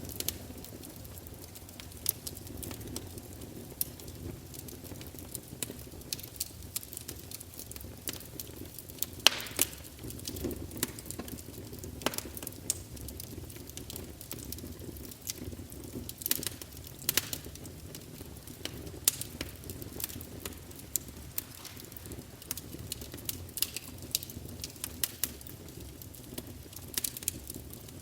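Wood fire burning in a fireplace: a low steady rumble of flames with frequent irregular crackles and pops from the logs, one sharp snap about nine seconds in.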